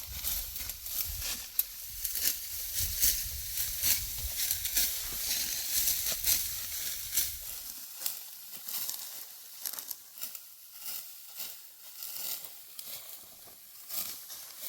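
Dry wheat stalks rustling and crackling, with many sharp clicks and crisp crinkling. A low wind rumble underneath stops about eight seconds in.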